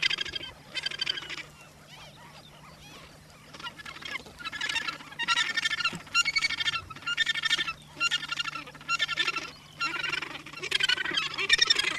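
Australasian gannets calling in a breeding colony: rapidly pulsed calls repeating about once a second, with a lull from about two to four seconds in.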